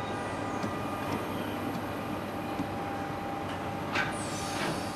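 Passenger coaches rolling slowly along the platform, their wheels running on the rails with faint steady squealing tones. About four seconds in there is a sharp knock, followed by a short high screech that falls in pitch.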